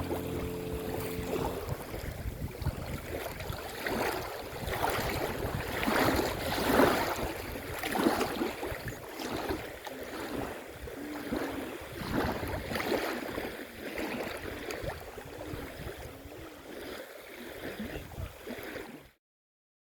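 Outdoor wind and water noise: gusty wind rushing over the microphone with small waves lapping at the loch shore, rising and falling in surges. It cuts off suddenly near the end.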